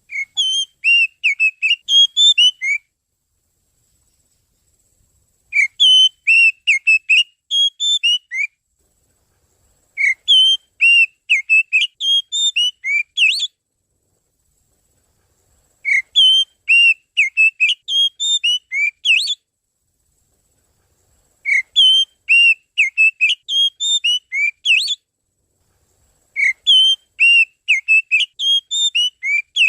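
Oriental magpie-robin song played as a lure call: bouts of rapid, high whistled notes, each about three seconds long, with silent gaps of two to three seconds between them.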